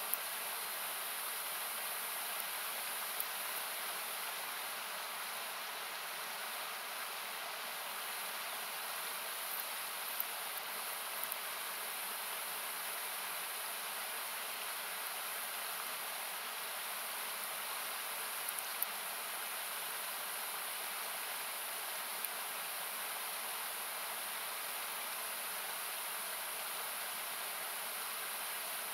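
Steady rushing of a river, a continuous hiss-like noise, with a few faint, sharp pops of a wood campfire crackling now and then.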